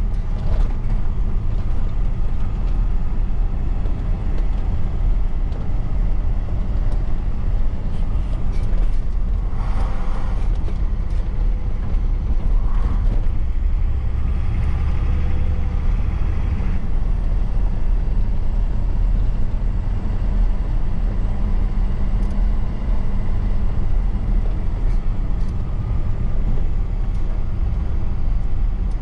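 Truck engine and road noise while driving: a steady low drone, with a brief swell of extra noise about halfway through.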